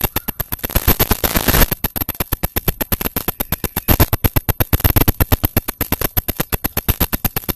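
Rapid, even crackling of about ten clicks a second from a faulty recording microphone, with a burst of loud hiss about a second in.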